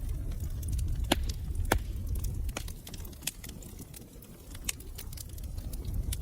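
Wood fire crackling in a fireplace: a low rumble of burning under scattered sharp pops and snaps, with two louder pops a little over a second in.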